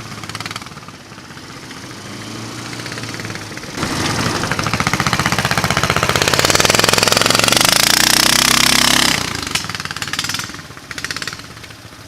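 420cc single-cylinder engine of a mini-bike trike, running low at first, then opened up about four seconds in and run hard with pitch climbing for about five seconds before the throttle comes off.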